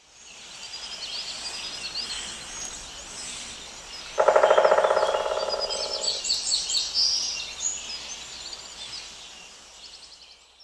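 Forest bird chorus: many small birds chirping high over a soft background hiss, with one bird giving a loud, rapid run of repeated lower notes that starts abruptly about four seconds in and lasts about two seconds.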